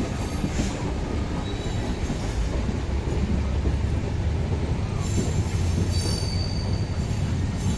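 Bangladesh Railway express passenger coach running along the track, heard from an open carriage window: a steady low rumble of wheels on rails, with a brief high wheel squeal about six seconds in.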